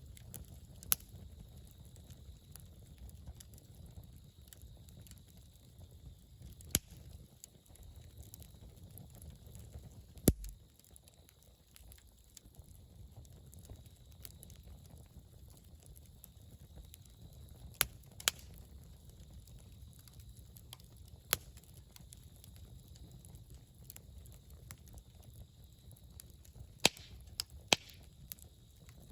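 Wood campfire crackling: scattered sharp, irregular pops from the burning wood, with a quick cluster of pops near the end, over a low steady rumble of the flames.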